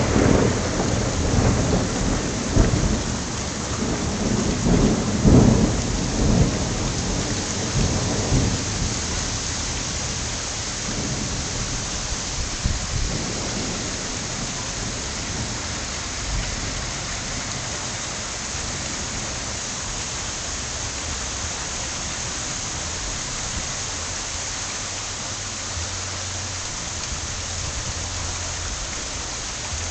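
Thunder rumbling loudly at first, with surges a second or two in and again about five seconds in, then dying away over the first ten seconds or so. Steady rain is left falling after that.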